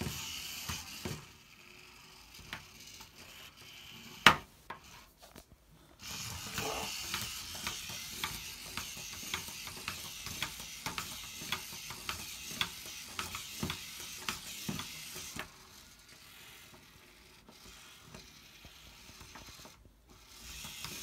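Geared motor of a remote-controlled OLLO kit robot frog running, with plastic gears clicking rapidly. It runs briefly at the start and again from about six to fifteen seconds in, with a single sharp click about four seconds in.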